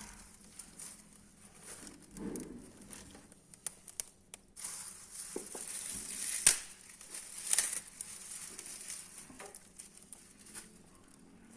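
Wood fire in a fireplace crackling, with scattered small clicks and a hissing stretch in the middle that holds two loud sharp pops.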